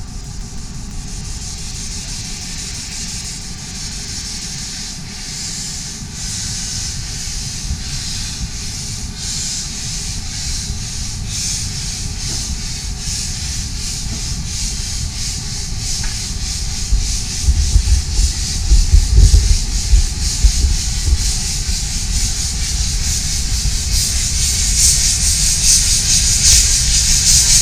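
Miniature steam locomotive working, its exhaust beats quickening as it gathers speed, with a bout of loud low thumping about two-thirds of the way in and steam hiss building toward the end.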